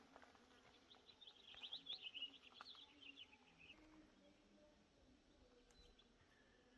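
Faint twittering of a small bird: a quick run of high chirps lasting about three seconds, starting about a second in, over near silence.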